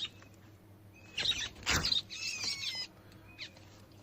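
Small birds chirping: a quick cluster of short, high, falling chirps about two seconds in and a single chirp near the end, typical of nestlings calling while the mother bird tends them. Just before the chirps, a brief rustling burst with a thump.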